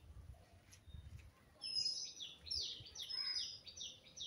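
A small bird chirping, starting about two seconds in: a fast run of short, high, falling chirps repeated many times over.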